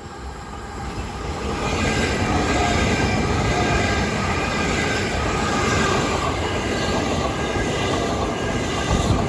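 Two coupled Class 375 Electrostar electric multiple units passing through the station. The rush of wheels on rail and running gear builds over the first two seconds, then holds steady at full loudness as the train goes by.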